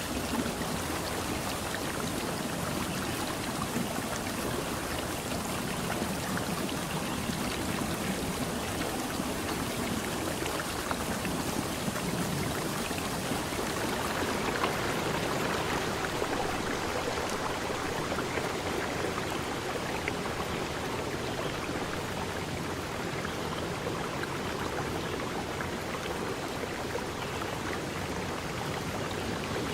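Running water from a stream: a steady, unbroken rush.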